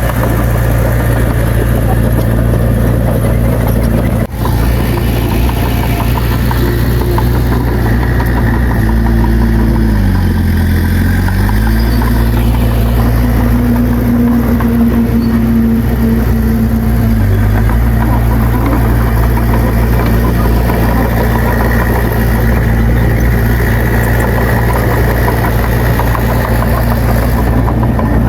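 Bulldozer's diesel engine running steadily and loudly. Its pitch sags briefly about ten seconds in and again near seventeen seconds, then comes back up. There is a momentary break just after four seconds.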